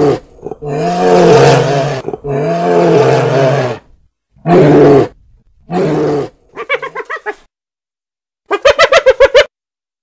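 Animal calls: two long, loud calls in the first four seconds, two shorter ones after, then a fast rattling series of calls near the end.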